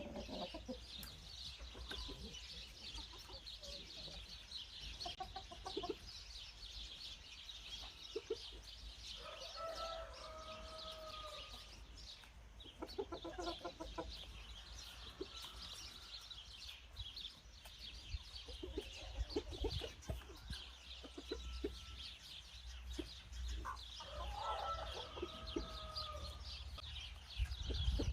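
Chickens clucking in short pitched calls, with louder bouts about a third of the way in and again near the end. Under them runs a steady, dense high chirring and a low rumble.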